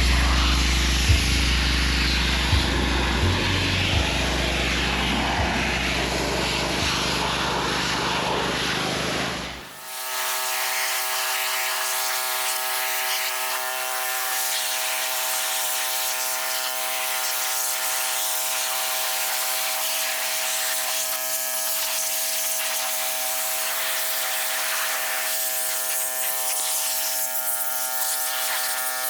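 A low, heavy rumble with a few knocks, cut off abruptly about ten seconds in, followed by the steady buzz of a small electric motor.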